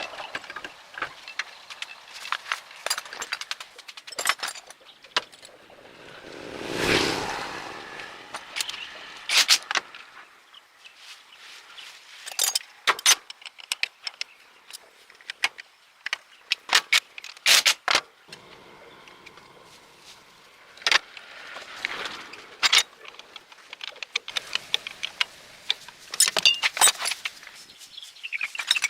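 Scattered metallic clinks, clanks and rattles of tools and parts being handled during repair work, with one swelling rush of noise that rises and fades about seven seconds in.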